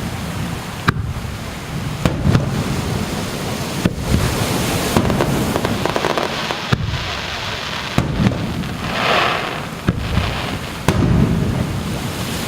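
Aerial fireworks bursting over the sea: a string of sharp bangs one to two seconds apart over a continuous low rumble, with a hissing, crackling swell about nine seconds in.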